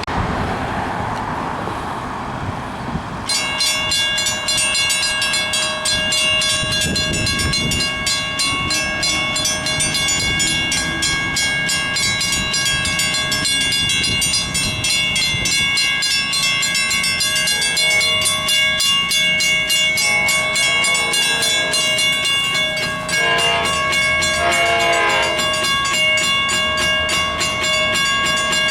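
A railroad grade crossing warning bell starts ringing suddenly about three seconds in, a fast steady ringing that keeps on, as a Long Island Rail Road train approaches. In the second half the train's horn sounds, with a run of horn blasts over the bell.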